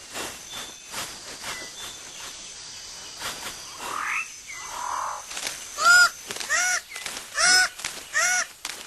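Rainforest background of steady high insect tones. About two-thirds of the way in, a bird starts a run of loud, repeated honking calls, about five arched notes in quick succession.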